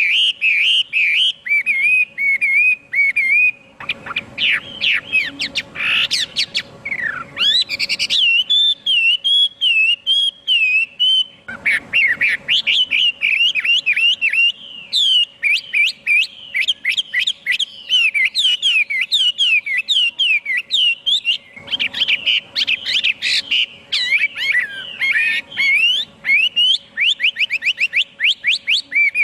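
Chinese hwamei singing a continuous, varied song of rapid whistled notes, sweeps and fast trills, with only momentary breaks.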